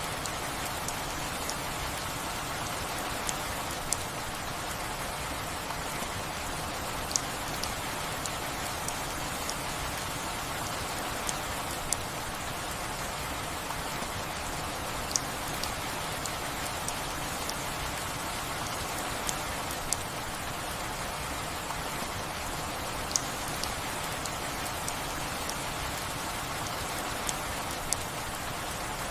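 Steady rain, an even hiss of falling drops, with a sharp, louder drop tap every few seconds.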